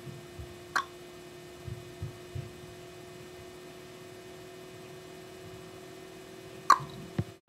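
A steady background hum on one unchanging tone, with a sharp click about a second in and another near the end, and a few soft low thumps in between.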